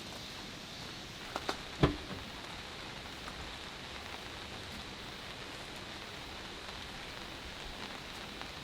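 Steady rain falling. About a second and a half in come two light knocks, then one louder thump.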